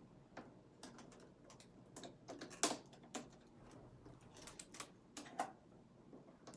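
Irregular light clicks and taps of hard plastic items being handled, the loudest about two and a half seconds in.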